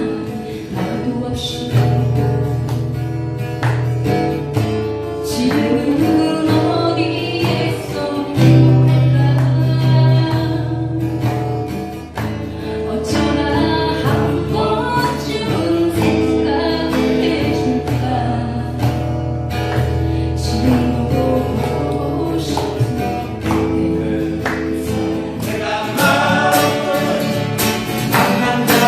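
Acoustic guitars strumming a song, with voices singing along.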